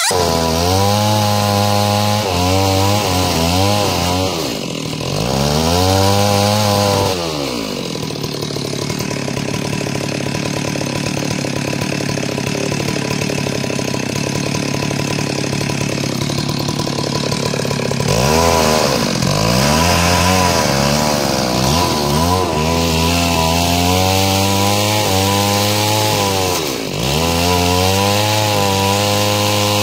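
Stihl two-stroke chainsaw running hard while ripping a log lengthwise into planks, its revs dropping and recovering several times as the chain bogs in the wood. For about ten seconds in the middle it holds a steadier, lower note under load.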